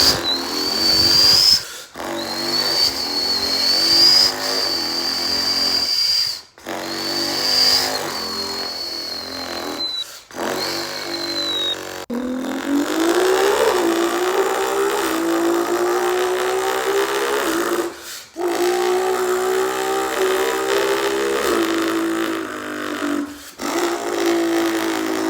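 A person imitating a car engine with their mouth: a series of loud vocal revs broken by short breaths. The first few carry a high whine over the engine note, and about halfway through a long rev rises in pitch and then holds steady.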